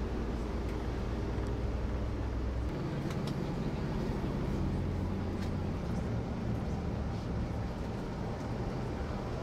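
Tour bus heard from inside the cabin, a steady low engine drone with road noise. The engine note shifts about three seconds in.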